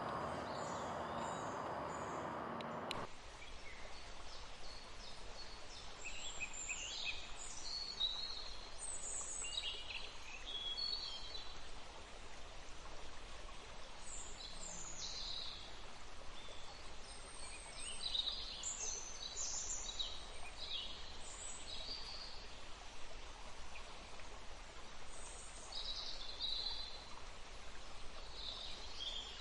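Running water rushing for about three seconds, then a sudden switch to many small birds chirping and twittering, short high calls scattered all through, over a faint steady hiss.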